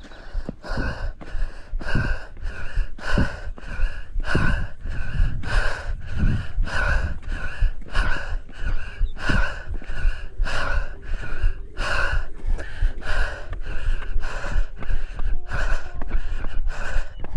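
A runner's heavy, rapid panting through the mouth, about two breaths a second, from hard uphill effort. A low wind rumble on the microphone and occasional soft footfalls lie underneath.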